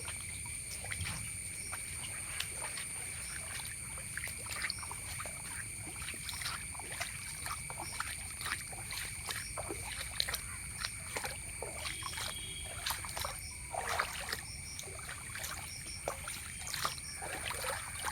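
Ambience beside floodwater: scattered small drips and splashes of water, over a steady high-pitched drone of insects.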